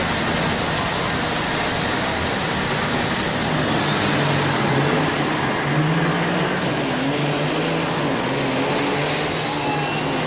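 Semi-truck diesel engines running hard in a drag race, with a high steady whistle over the first few seconds.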